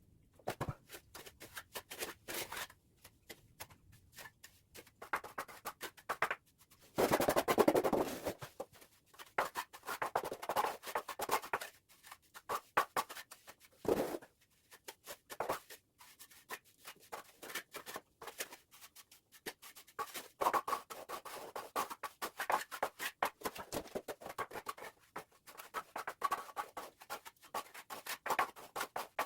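Trowel scraping and tapping as cement mortar is spread and smoothed, in irregular strokes, with a louder, longer scrape about seven seconds in and a sharp knock about fourteen seconds in.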